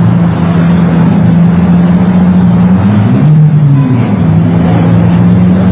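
Loud car engine and exhaust running with a steady low drone, its pitch wavering briefly up and down in the middle as the engine is blipped.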